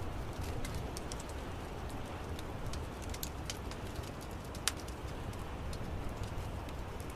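Wood fire crackling in an outdoor fireplace: irregular sharp pops and snaps, one louder snap about four and a half seconds in, over a steady low rumble of the flames.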